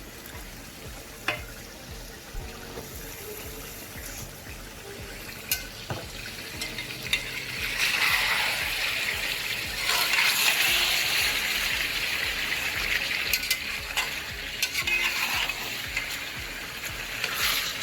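Chicken pieces and chopped onions sizzling in oil in a pot while being stirred, with the spoon now and then clicking against the pot. The sizzling grows louder about halfway through.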